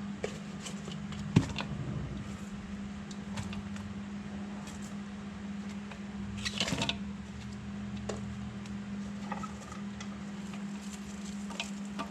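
Sliced cucumbers and onions being layered by hand into a container: scattered light clicks and taps, with a sharper knock about a second and a half in and a short burst of handling noise in the middle, over a steady low hum.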